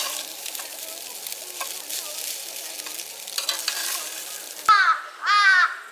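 Food frying in a pan, an even sizzling hiss with small crackles. Near the end a crow caws twice, loudly.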